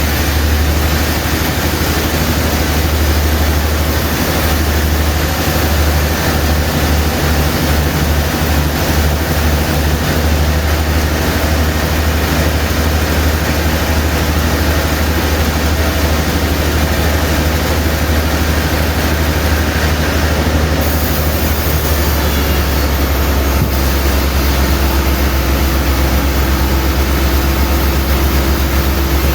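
Sawmill machinery running steadily: a strong low engine or motor hum under a continuous noisy whir, with no break.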